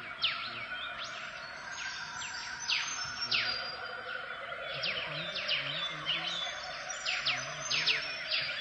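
Several birds calling, with many quick high whistles sweeping downward and overlapping, over a steady hum.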